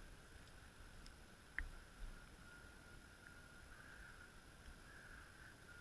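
Near silence, with a faint steady high whine and a single click about a second and a half in.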